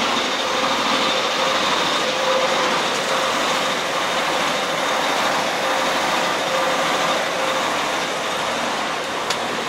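Royal Railway passenger railcar standing at the platform with its machinery running: a steady mechanical hum and hiss with a faint held whine.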